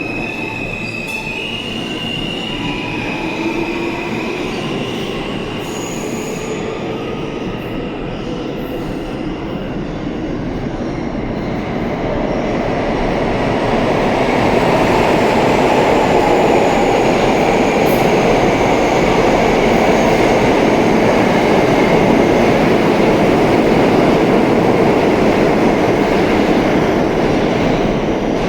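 R160 New York subway train: the propulsion motors whine, rising in pitch over the first few seconds, then the rumble of wheels on rail grows louder from about twelve seconds in, stays loud, and eases off near the end.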